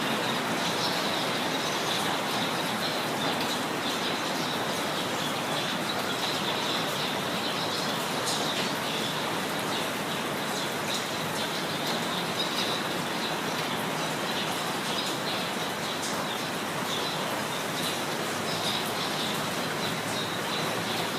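Steady rain falling, with small birds chirping repeatedly over it.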